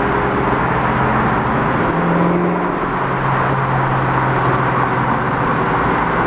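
Twin-turbo American muscle car's engine running at low, steady revs in slow traffic, a steady drone over road noise, its pitch shifting slightly about two seconds in.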